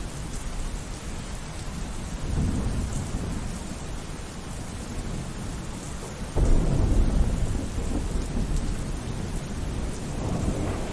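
Steady rainfall with thunder: a low rumble swells about two seconds in, then a sudden louder thunderclap about six seconds in rolls on and slowly fades.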